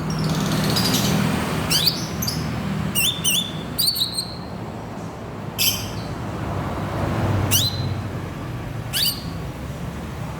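Green leafbird (cucak ijo) giving sharp, fast sweeping whistled calls, about half a dozen, several sweeping down to a short held note and a quick pair near three seconds in. This is a lure recording of the species, played to provoke a captive bird into song.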